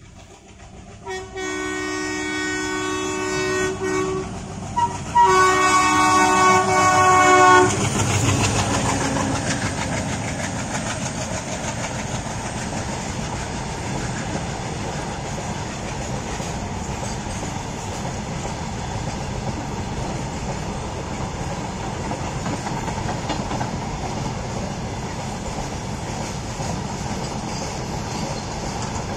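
Locomotive horn of a container freight train sounding two long blasts, about three seconds and two and a half seconds, the second louder. After that the wagons rumble and clatter steadily past as the train goes through the crossing.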